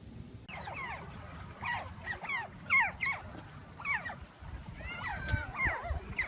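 A group of otters chirping: a rapid string of short, high-pitched squeaks, each sliding down in pitch, several a second and often overlapping.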